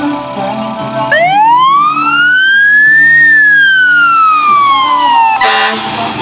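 An emergency-vehicle siren gives one long wail, rising for about two seconds and then falling away slowly. Near the end comes a short, loud horn blast. Music plays in the first second before the siren starts.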